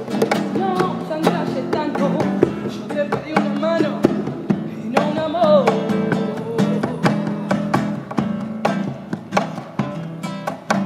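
Live band music: acoustic guitars strummed in a fast, steady rhythm under a sung melody that wavers and glides in pitch.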